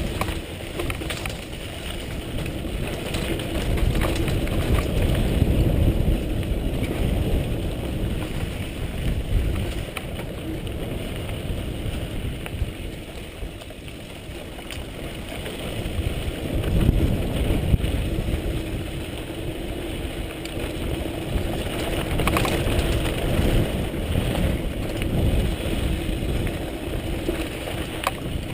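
Wind buffeting the camera microphone over the rumble of riding on a rough trail, swelling and easing every few seconds.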